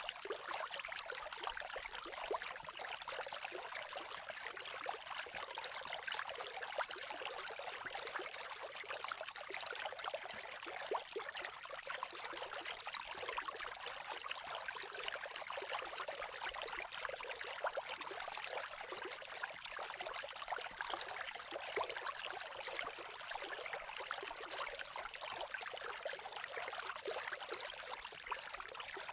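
A creek babbling steadily, with a campfire crackling in small, quick snaps.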